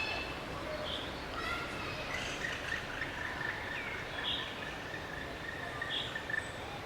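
Bird calls over a steady background hiss. A short high note repeats about every one and a half seconds, and a thin steady whistle-like tone runs through the middle.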